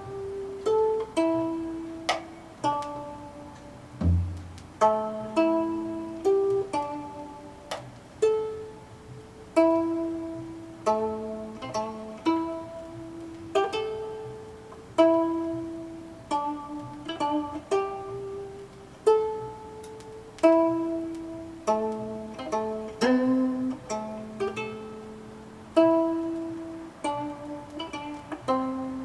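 Solo gayageum, the Korean long zither, playing a slow melody: single plucked notes that ring and fade, some of them bent in pitch, with a deep low note about four seconds in.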